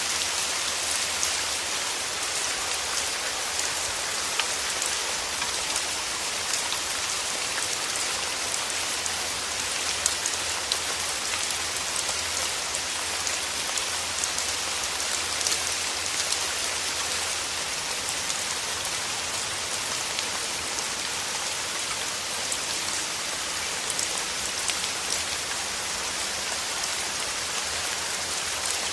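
Steady rain falling: a dense, even hiss with individual drops ticking through it.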